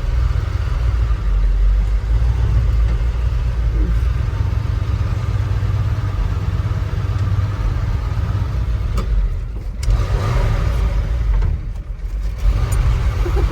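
Old pickup truck's engine running with a loud, steady low rumble, changing briefly twice in the second half.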